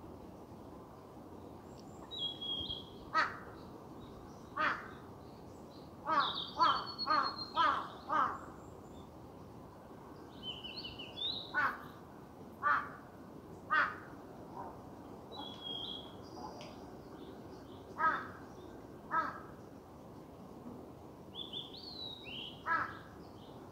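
Harsh cawing calls of a bird, some single and a quick run of five about a second apart near the middle, with small birds chirping briefly in between, over a steady outdoor hiss.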